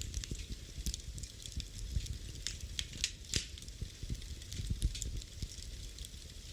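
Wood fire in a fireplace crackling, with a low steady rumble of flames under scattered sharp pops, a cluster of louder pops around the middle.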